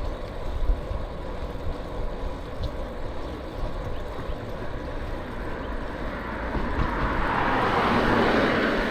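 Wind rumbling on the microphone of a chest-worn camera while riding a bike. Over the last couple of seconds a rushing noise grows louder, a vehicle passing by.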